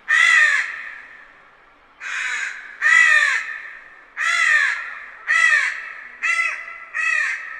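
Crow cawing: seven harsh caws roughly a second apart, the last few shorter and quicker.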